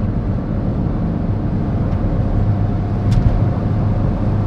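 Steady in-cabin drone of a Maruti Suzuki Swift Dzire with its 1.3-litre DDiS turbodiesel, cruising at about 140 km/h, engine hum mixed with road and wind noise. There is one short click about three seconds in.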